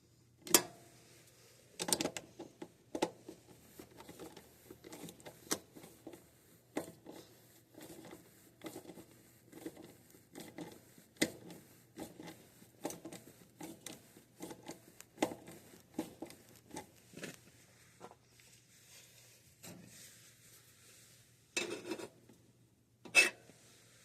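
Irregular clicks, taps and rustles of thick electrical wires being worked and wedged into place inside a metal air handler cabinet, insulation and metal rubbing, with a few sharper knocks near the start and near the end.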